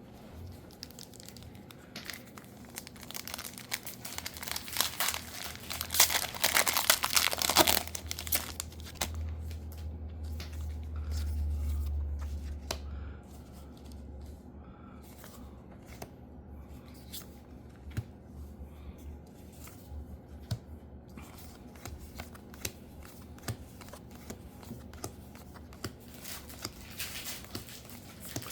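Trading card booster pack wrappers being torn open and crinkled, loudest a few seconds in. Then come scattered light clicks and rustles, and another crinkling burst near the end.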